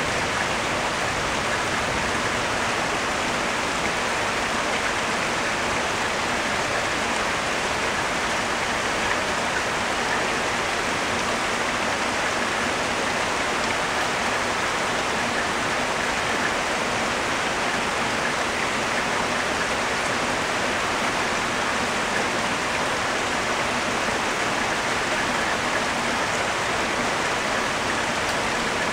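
Steady rain pouring down on woodland and banana plants, an even hiss that does not let up.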